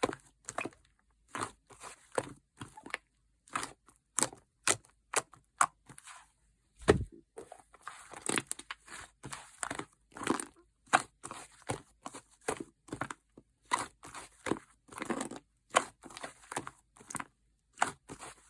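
Slime being pressed and squished by hand, giving irregular sticky pops and crackles a few times a second, with one heavier thump about seven seconds in.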